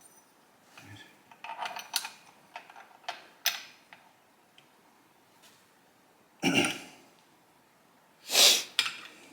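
Small metal carburetor parts being handled and fitted together: scattered light clicks and clinks in the first few seconds, then two louder clatters, one past the middle and one near the end.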